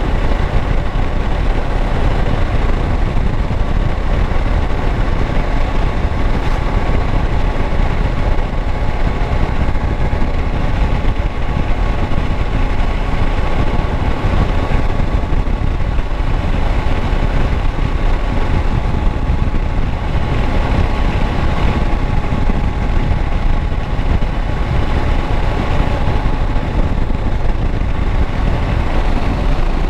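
Kawasaki Versys 650 parallel-twin motorcycle engine idling steadily, its pitch and level unchanging throughout.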